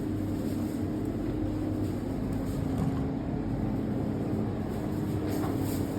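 A steady low mechanical hum that holds an even pitch throughout.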